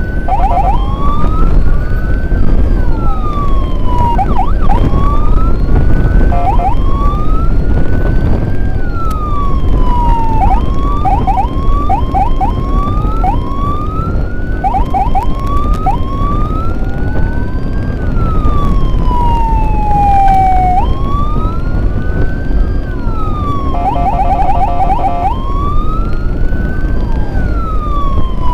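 Electronic emergency sirens wailing, several overlapping and sweeping slowly up and down, broken now and then by quick runs of rapid yelping chirps, over a heavy low rumble of road and wind noise.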